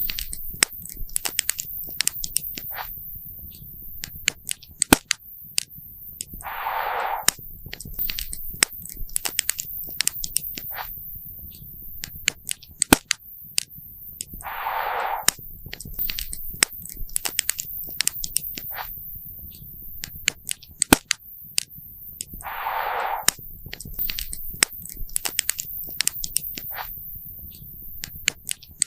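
Wood campfire crackling and popping: sharp irregular snaps over a low steady rumble of the fire. A short hiss recurs about every eight seconds.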